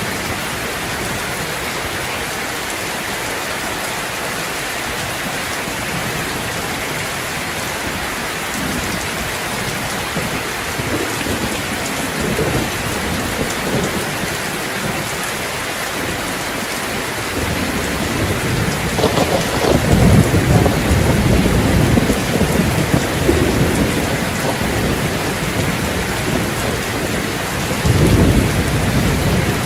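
Steady rain falling. Low rolling thunder builds a little past halfway, rumbles for several seconds, and swells again briefly near the end.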